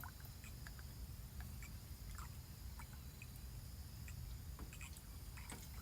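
Quiet handling noise: a few faint small clicks and taps over a low steady hum.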